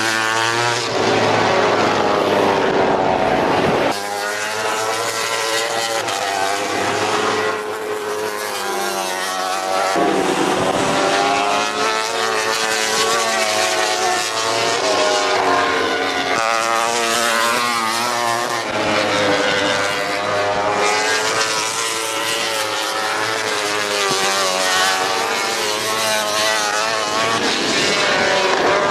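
MotoGP racing motorcycles running at high revs, their engine notes rising and falling as several bikes pass in turn.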